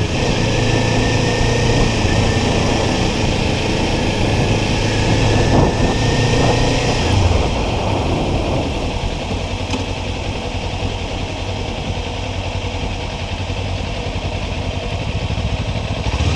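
Kawasaki Ninja sport bike's parallel-twin engine running under way with wind noise over the helmet. The wind noise and the engine ease somewhat about halfway through.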